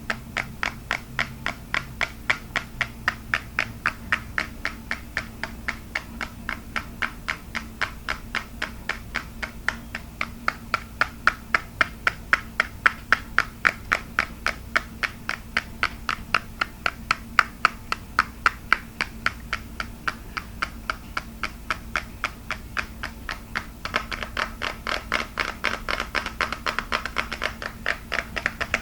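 Fingers tapping on a hard object in an even rhythm of about three crisp taps a second. Near the end the tapping turns faster and denser.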